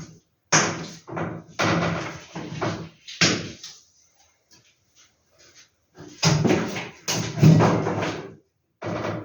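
Poster packaging and paper being handled: irregular bursts of rustling and crinkling, with a quiet pause around the middle.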